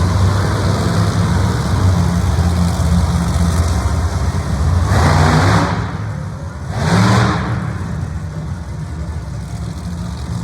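Motor-vehicle engines running loud and steady at a monster truck and freestyle motocross show, with two brief louder surges about five and seven seconds in.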